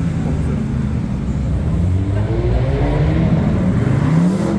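Car engine accelerating hard, its pitch rising steadily through the second half and falling away near the end.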